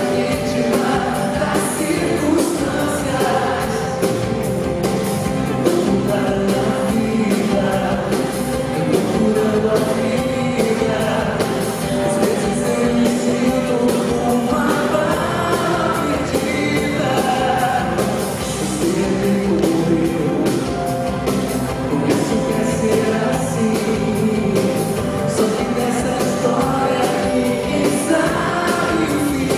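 Live pop-rock band performance with singing; voices that sound like a crowd singing along mix with the lead vocal over steady drums.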